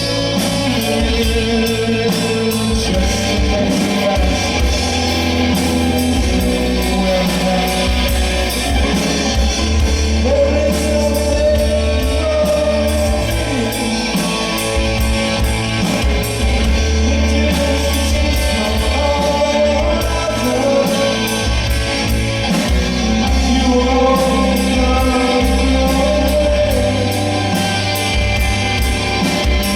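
Live band music with singing over a steady drum beat and bass.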